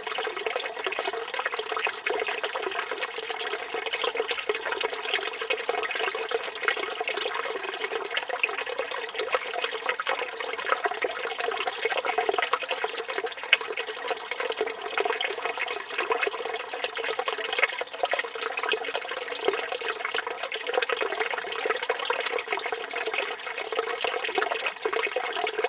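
Water running steadily from a village fountain (çeşme), a continuous even splashing that neither starts nor stops.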